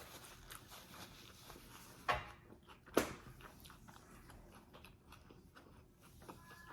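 A person chewing food with faint, soft mouth clicks, broken by two sharp knocks about two and three seconds in.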